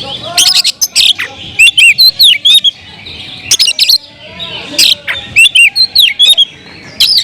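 Oriental magpie-robin (kacer) singing: loud bursts of sharp chirps and quick whistled notes, broken by short pauses.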